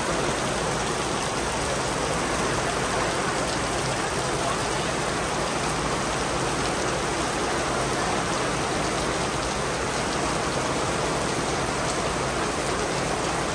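Rain shower falling steadily: an even, unbroken hiss of rain with no single drops or other events standing out.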